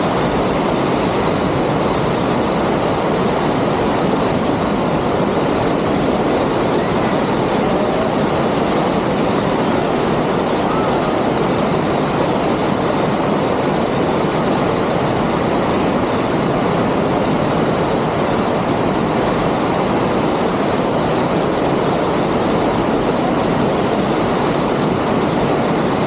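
Waterfall: a steady, even noise of falling water that does not change.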